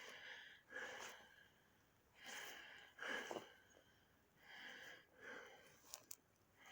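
Quiet breathing close to the microphone: a soft breath out and in roughly every two seconds.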